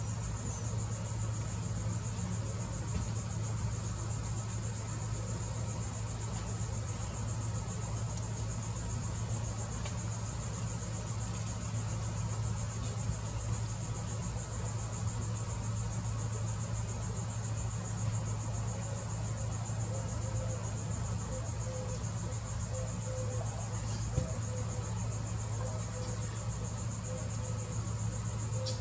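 Steady insect chorus, a constant high-pitched buzzing trill such as crickets make, over a steady low hum.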